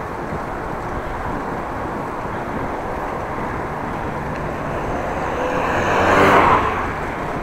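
Steady wind and road rush while cycling into a headwind. A motor vehicle passes about six seconds in, rising to a peak and fading away.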